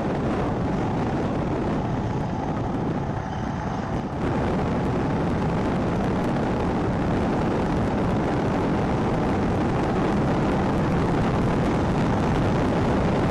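Royal Enfield Himalayan motorcycle at road speed, heard as a steady rush of wind on the helmet-mounted action camera's microphone over the engine and road noise. It drops a little about three seconds in, then comes back up suddenly about four seconds in.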